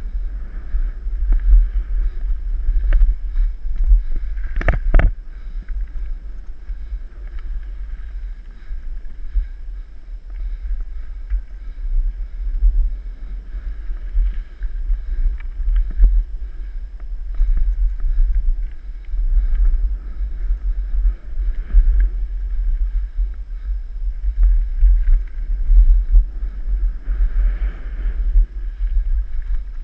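Low wind rumble buffeting the microphone of a camera carried on a moving mountain bike, with scattered clicks and rattles from the bike over the trail. A sharper knock comes about five seconds in.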